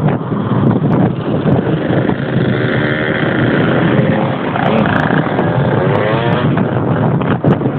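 Motorcycle engine running with a lot of rushing noise, its pitch rising as it revs up about five seconds in.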